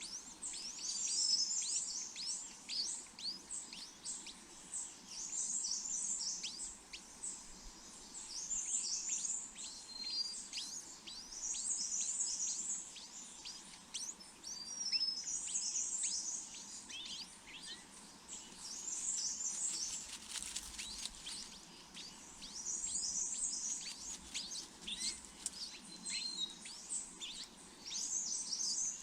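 Small birds chirping: clusters of high, rapid chirps come every three to four seconds, with quick falling chirps in between.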